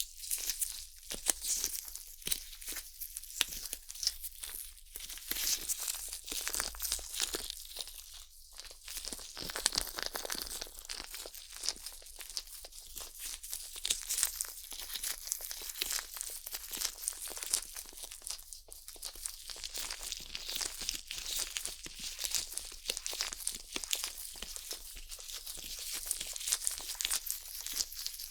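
Close-up scratching and scraping on the silicone ears of a 3Dio binaural microphone: a dense, unbroken run of quick crackly, rustling strokes, bright in the treble.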